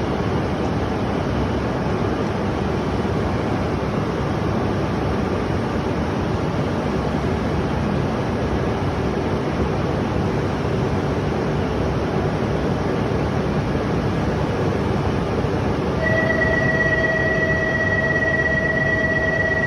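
E5/E6 Shinkansen train standing at the platform, its onboard equipment giving a steady rushing hum. About 16 s in, a steady electronic tone starts and holds, typical of a platform departure signal.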